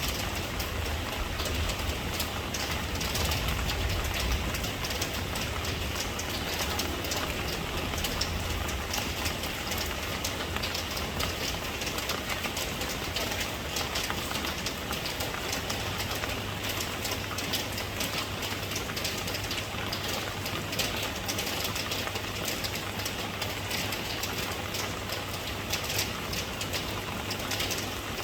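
Steady rain falling, a dense patter of many separate drop impacts, with a low rumble underneath that is strongest in the first few seconds.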